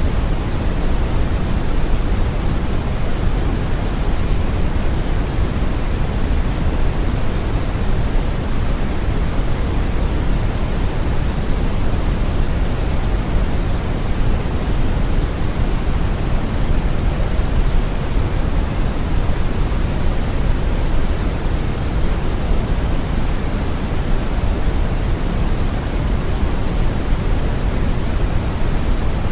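Steady brown noise: a deep, even rumbling hiss, strongest in the bass and thinning toward the highs, with no changes or events.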